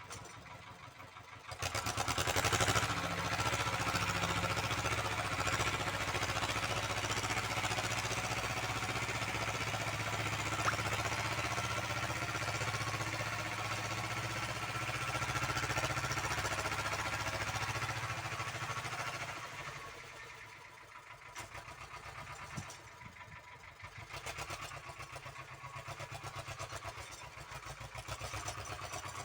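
Uralets tractor engine running. It picks up sharply about a second and a half in and runs steadily under load until about twenty seconds in, then falls back to a lighter, uneven run.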